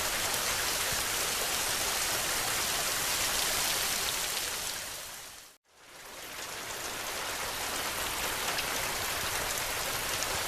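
Steady heavy rain with a few faint crackles of a wood fire. It fades out to silence about five and a half seconds in and fades back up over the next second or two, like the seam of a looped recording.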